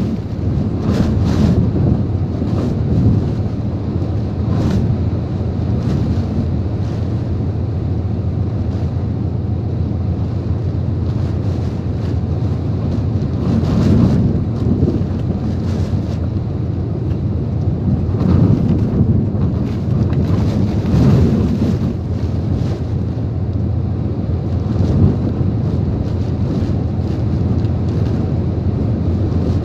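Typhoon wind blowing hard in gusts, with heavy wind noise buffeting the microphone. It swells louder about halfway through and again about two-thirds of the way in.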